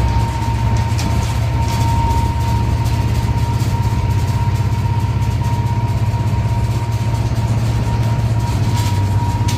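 Heavy vehicle engine running steadily: a low drone with a thin, steady whine above it.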